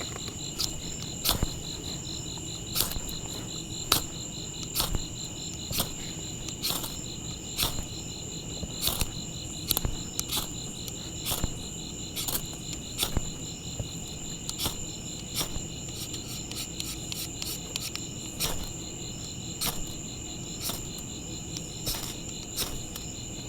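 Repeated short scrapes of a knife striking a ferro rod (fire steel), roughly one every second and irregularly spaced, as sparks are thrown at tinder to start a fire. Behind them a steady chorus of insects trills high and without a break.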